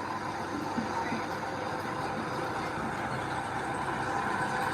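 Heavy earthmoving machinery's diesel engine running steadily.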